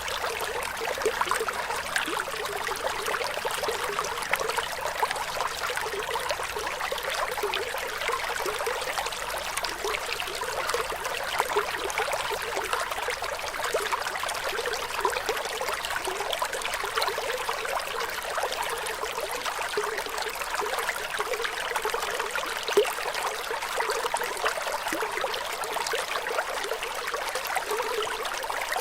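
Running water, flowing and trickling steadily, a light splashing sound with no deep rumble.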